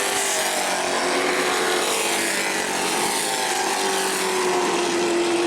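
Race truck engines running hard on an asphalt short track, a steady loud drone of several engines, with one engine note sliding slowly lower through the second half.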